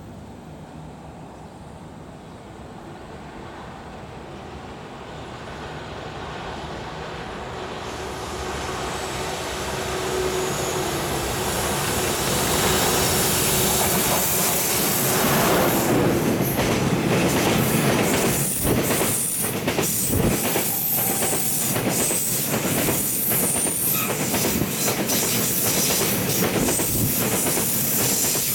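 JR Freight EH200 electric locomotive and its Taki 1000 gasoline tank wagons passing at speed: the noise builds over the first dozen seconds as the train approaches, then the wheels clatter loudly and rhythmically over the rail joints as the wagons go by.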